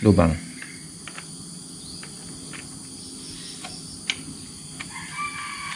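Steady high-pitched chirring of insects, with a few sharp light clicks and taps of parts being handled, the loudest about four seconds in, and bird-like chirps near the end.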